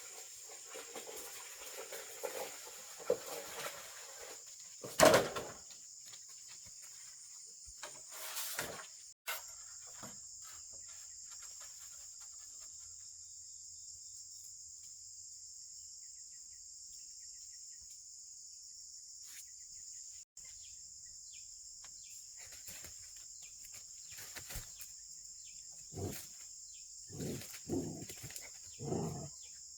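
Steady high-pitched insect chorus, with a few scattered knocks and thumps: the loudest about five seconds in, and a quick cluster of short, lower sounds near the end.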